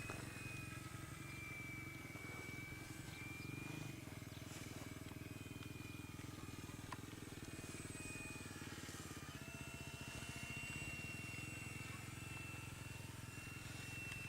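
Cessna 182's flat-six piston engine and propeller running steadily, with a thin, slightly wavering high whine above the drone.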